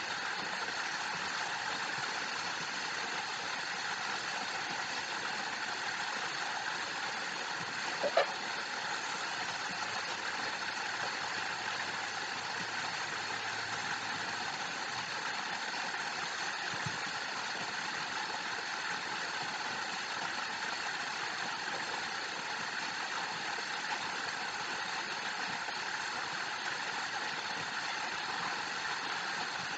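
Steady rushing of a waterfall, with one short pitched note about eight seconds in.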